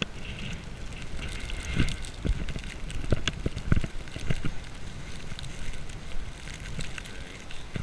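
Footsteps crunching through deep snow, irregular thumps about two a second, over a low rumble of wind on the microphone.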